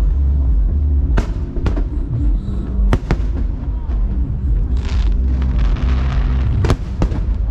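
Aerial fireworks bursting: sharp bangs about a second in, around three seconds and again near the end, with a stretch of crackling fizz in the middle, over a constant low rumble. Music plays underneath.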